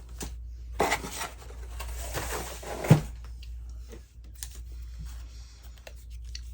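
Paper rustling and sliding as craft pieces are handled, ending in a sharp thump about three seconds in, then scattered light taps and clicks.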